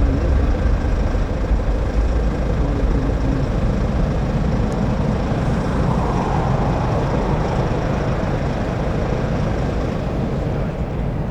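Distant jet airliner engine noise: a steady rumble that swells slightly about six seconds in.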